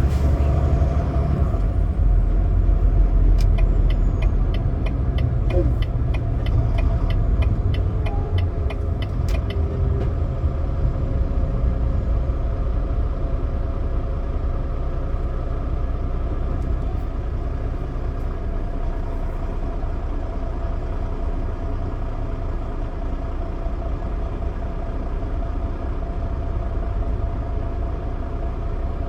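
Semi truck running down the road: a steady low diesel engine and road rumble, with a quick run of regular ticks during the first third.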